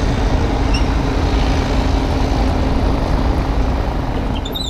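Kubota U35-3 mini excavator's diesel engine running steadily as the machine travels.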